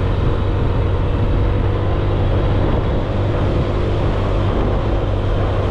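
Motorcycle engine running steadily while riding, a constant low hum with no change in pitch.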